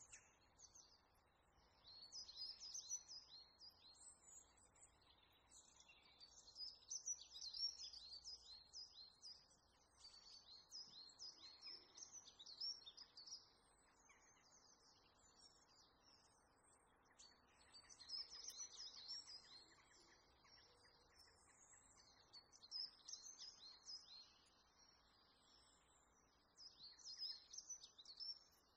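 Faint birds chirping, in bouts of quick high chirps a few seconds long with short pauses between.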